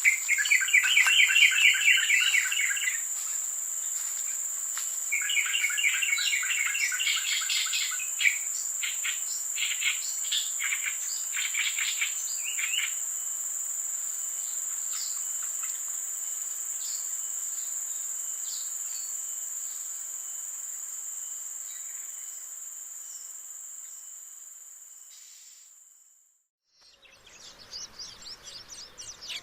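Insects keep up a steady high-pitched drone. A bird sings rapid trilled phrases over it, in two long bursts early on and then shorter notes. The insect drone fades away near the end, and after a short gap other chirping begins.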